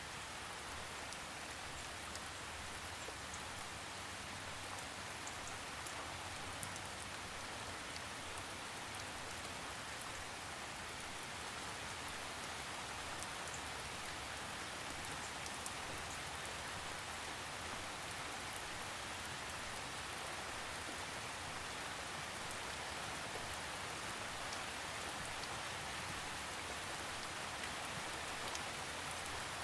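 Steady rain falling, an even hiss of rain with scattered faint drop ticks, with no thunder.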